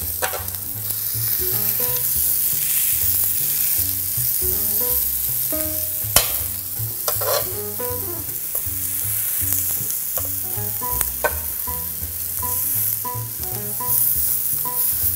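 Pork sausage patties, sausage links and fried eggs sizzling steadily on a hot electric griddle. A metal spatula and fork click and scrape against the griddle surface a few times, most sharply about six and seven seconds in.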